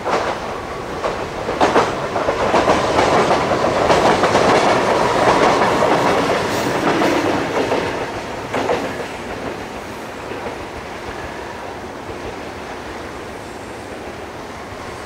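A Yoro Railway electric train passing close by, its wheels clacking over the rail joints. It is loudest a few seconds in, with sharp clacks near the start and end, then fades away.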